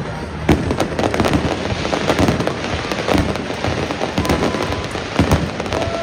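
Fireworks display: aerial shells bursting in quick succession, a dense run of bangs and crackling, with a sharp bang about half a second in.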